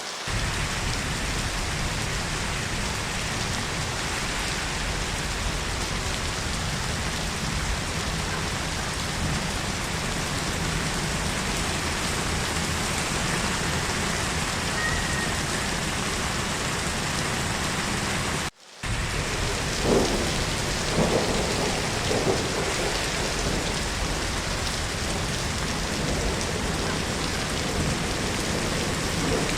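Heavy rain falling steadily, an even hiss of water. About two-thirds through it cuts out for a moment, and a few low thunder rumbles follow.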